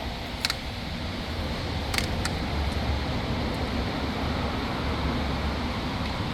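Steady low rumble of background machinery or ventilation, with a few light, sharp clicks of small parts being handled: about half a second in and twice around two seconds in.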